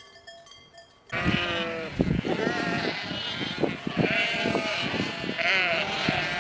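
Quiet plucked-string music for about a second, then an abrupt cut to a flock of livestock bleating: many overlapping calls, some short and some drawn out, with knocks between them.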